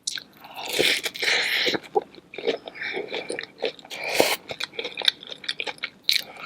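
Close-miked eating of a seafood boil: crunchy bites and chewing, with the loudest crunches about a second in and again just past four seconds.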